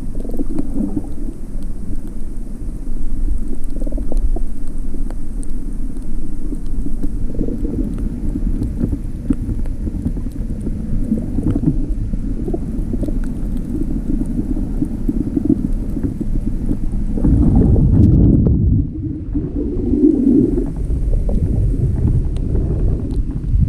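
Steady, muffled low rumbling noise, like wind or water buffeting the microphone, with a few faint clicks and a louder surge about three-quarters of the way through.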